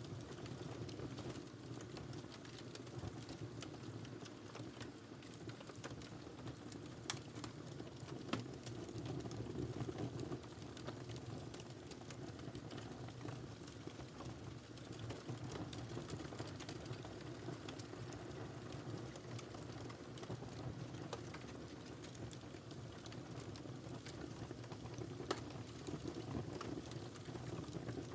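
Wood fire burning: a steady low rumble of flames with scattered crackles and pops, a few sharper pops standing out.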